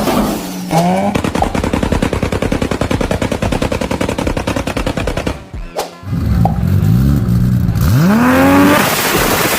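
Car engine with a very loud exhaust. It starts with a rapid, even string of sharp pops, about a dozen a second, for several seconds. After a short break it revs up twice, rising in pitch.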